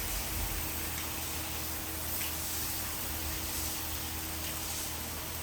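Food sizzling on a hot cast-iron griddle lid, a steady hiss with a faint low hum underneath.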